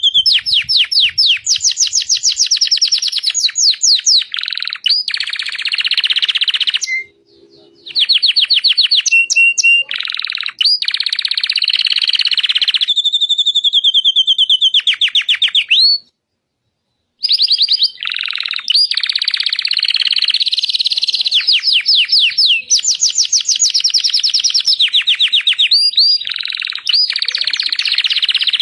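Domestic canary singing: long, high-pitched runs of rapid trills and rolled notes, one phrase after another, broken by a few short pauses and one full stop of about a second a little past the middle.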